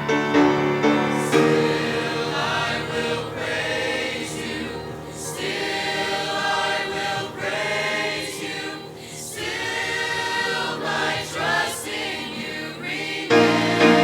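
Mixed choir of young men and women singing a gospel song in harmony.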